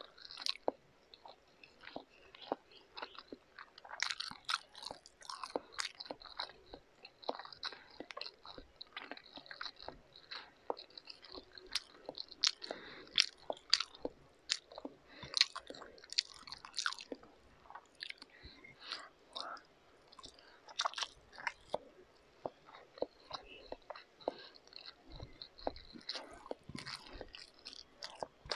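Close chewing and mouth sounds of a person eating instant pancit canton noodles: a dense, irregular run of short wet smacks and clicks.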